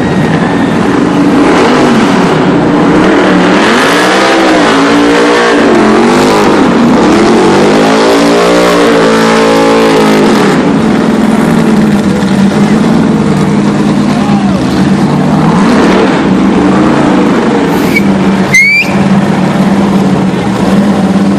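Car engine held at high revs for a burnout, its pitch swinging up and down several times as the throttle is worked, over the steady rush of spinning, smoking tyres. A single sharp crack comes about eighteen seconds in.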